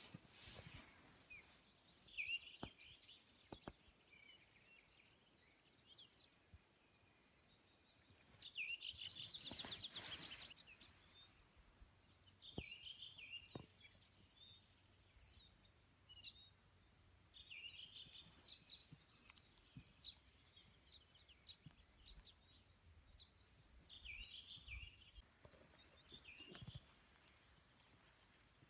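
Faint songbirds singing in short, high phrases that recur every few seconds. A louder, noisier sound of about two seconds comes around nine seconds in.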